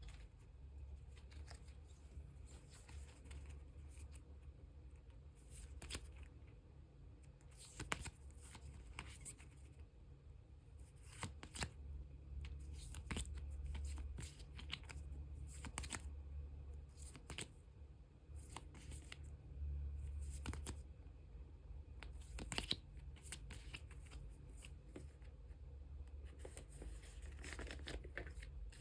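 Photocards and clear plastic card sleeves being handled: soft rustling and crinkling of plastic with scattered light clicks and taps, over a faint low hum.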